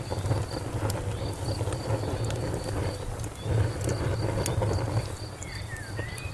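Wood fire crackling: a steady low rumble with scattered sharp pops and snaps. A cricket chirps evenly behind it, about three chirps a second, and a short gliding call sounds near the end.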